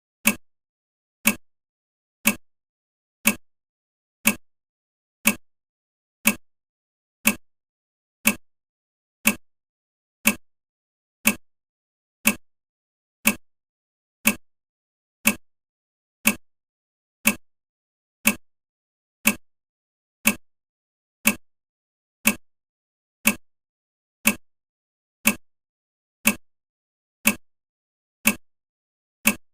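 Countdown timer's clock-tick sound effect, one sharp tick each second, marking off the seconds as the countdown runs.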